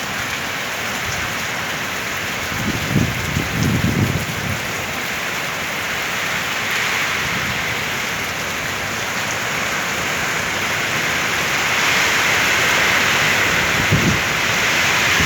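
Heavy rain falling steadily as a dense hiss, with brief low buffets about three seconds in and again near the end.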